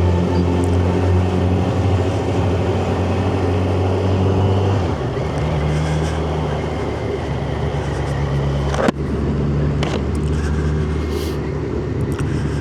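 Yamaha FZ1 motorcycle's inline-four engine running steadily while riding along. Its pitch drops about five seconds in, and there is a single sharp click near nine seconds.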